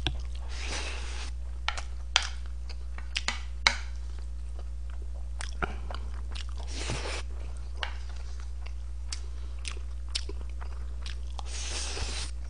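Close-miked chewing and mouth sounds of someone eating spoonfuls of fried rice with black-bean sauce. Three noisy bursts come as spoonfuls go in: one just after the start, one about seven seconds in and one near the end. Scattered sharp clicks run throughout, over a steady low hum.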